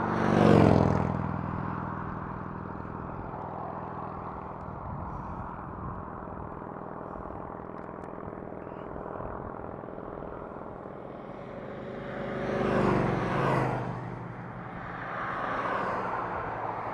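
Highway traffic: a vehicle sweeps past about half a second in with a falling pitch, then a steady hum of traffic until more vehicles pass near the end.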